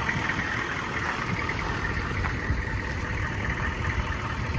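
Bus engine idling steadily with a low rumble.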